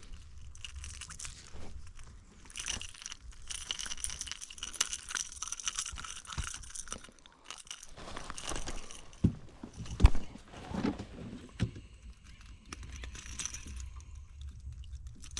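Handling noises of landing and unhooking a small bass on a fishing kayak: scattered clicks and rustling from the lure, tackle and hull, with two sharper knocks about nine and ten seconds in.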